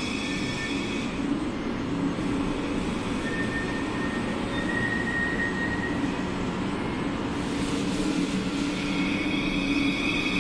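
Thameslink Class 700 electric train moving out along an underground platform: a steady rumble with a faint motor whine that rises slightly through the middle. A steady high hum fades about a second in and comes back near the end.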